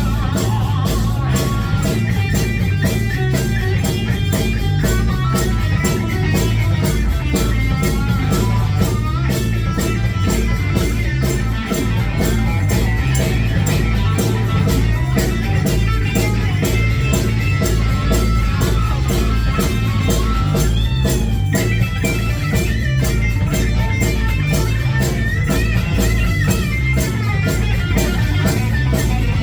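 Live rock band playing amplified: electric guitar over bass and drums with a steady beat.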